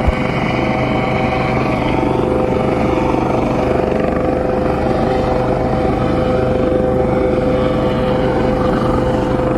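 Coast Guard helicopter hovering close by: a loud, steady drone of rotor and turbine with a constant whine running through it.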